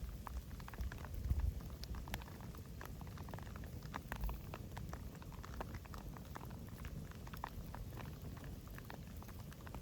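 Wood campfire crackling: irregular small pops and snaps over a low rumble, with a louder low surge about a second in.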